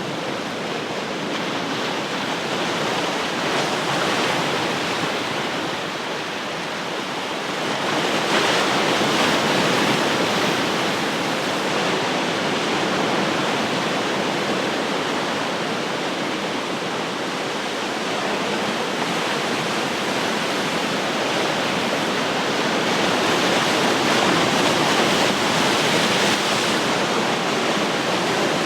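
Ocean surf: a continuous wash of breaking waves, swelling louder as a wave comes in about eight seconds in and again near the end.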